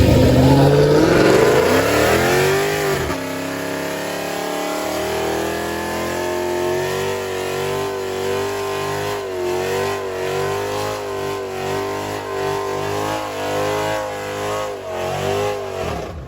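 Car engine revving hard during a burnout: its pitch climbs steeply over the first three seconds, then is held high and wavers up and down, dropping off at the very end.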